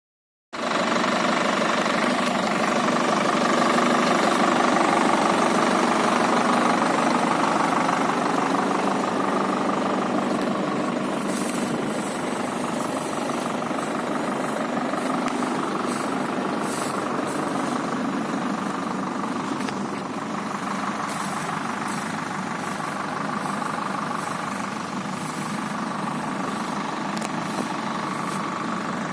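Tractor engine running steadily at a constant speed, with faint scattered clicks over it in the second half.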